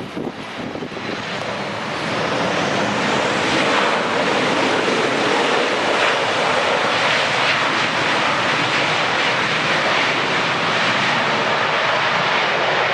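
Airbus A319-115's CFM56 jet engines: a loud roar that builds over the first two seconds and then holds steady as the airliner lands.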